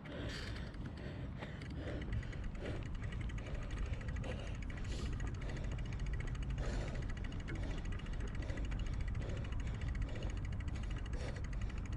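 Bicycle riding noise: a steady wind rumble on a GoPro action camera's microphone, with tyre and drivetrain sounds and small rattles scattered through it.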